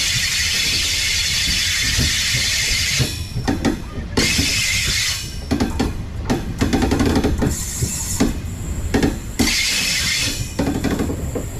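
Passenger train rolling slowly on the track: a steady hiss for about three seconds, then irregular clunks and clatter of the wheels running over rail joints and points.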